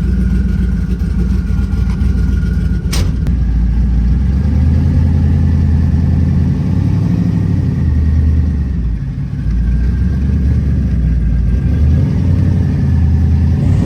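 Twin-turbo Chevrolet Caprice's engine running loud as the car moves off, its low drone swelling and easing several times. A single sharp click about three seconds in.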